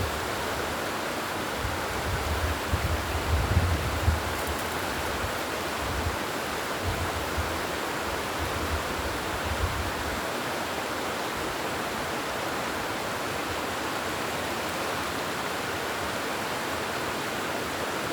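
Steady outdoor rushing noise, with wind buffeting the microphone in gusts through roughly the first half.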